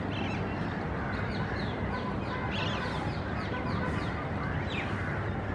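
Birds chirping, with many short falling calls repeating over a steady low background rumble.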